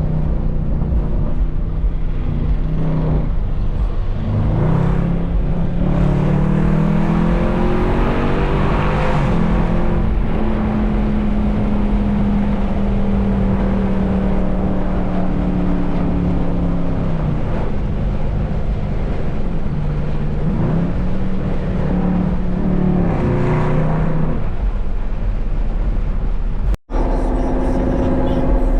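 Car engine running under way, its pitch climbing as it accelerates, holding steady while cruising, then dropping and rising again. The sound cuts out for an instant near the end.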